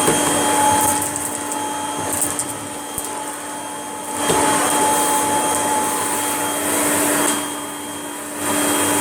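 Kirby upright vacuum cleaner running with a steady motor whine. It grows louder and quieter twice as it works, with brief rattles of picked-up debris about two seconds in.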